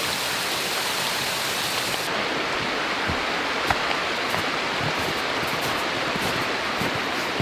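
Heavy rain falling steadily, a dense hiss that turns duller about two seconds in, with scattered louder drops tapping from then on.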